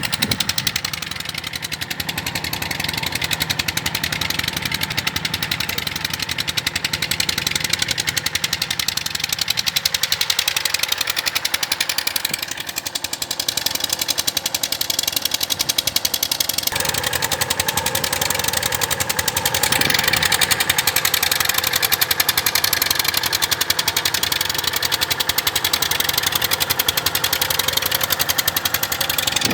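Engine running steadily with a rapid, even knocking beat.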